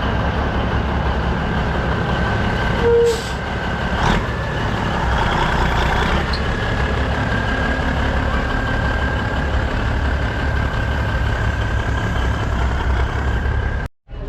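Heavy diesel truck engine idling with a steady low rumble. A short beep sounds about three seconds in and a sharp knock a second later, and the sound cuts off abruptly just before the end.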